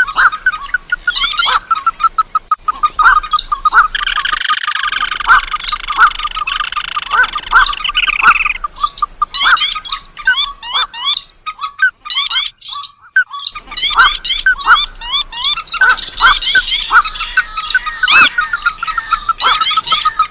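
Bird-lure recording layering calls of rice-field and marsh birds such as rails, crakes and waterhens. It has rapid repeated call notes with quick rising chirps above them, a drawn-out buzzy call lasting a few seconds, and a short break about two-thirds of the way through.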